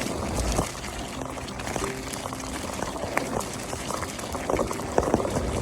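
Mountain bike rolling along a trail: a steady noise of tyres on the trail surface, with scattered light clicks and rattles from the bike.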